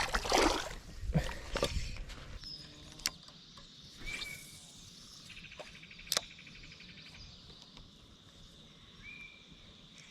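Outdoor creekside ambience: a faint steady high insect drone with a short rhythmic buzz in the middle and two brief chirps, after rustling noise in the first two seconds and a couple of sharp clicks.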